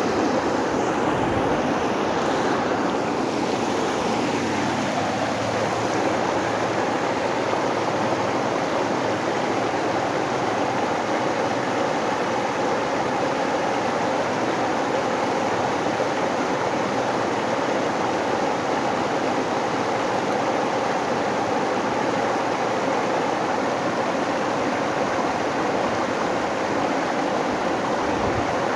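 Steady rushing of river water. A faint tone falls in pitch over the first few seconds.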